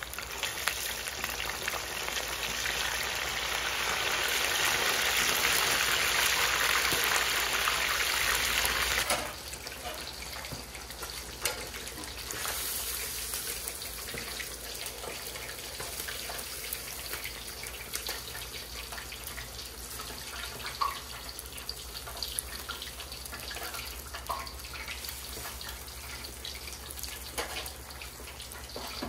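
Whole snapper deep-frying in hot oil: a dense, steady sizzle that drops suddenly about nine seconds in to a quieter bubbling crackle. Occasional light clicks come from metal tongs and a wire strainer against the pan.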